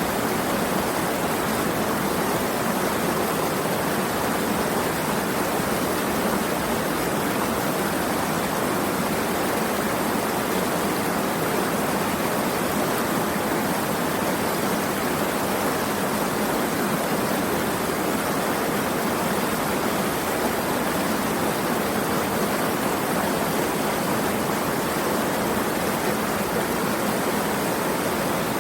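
Running water rushing steadily and evenly, a continuous stream-like flow.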